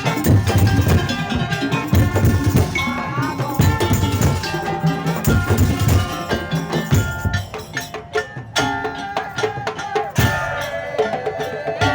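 Madurese tong-tong parade ensemble playing live: wooden slit drums and drums beating a dense rhythm under a tuned, bell-like melody. The drumming thins out briefly past the middle, then the full band comes back in.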